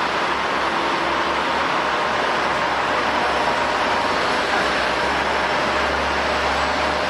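Airbus A350 jet engines running, a steady rushing noise with a faint steady whine.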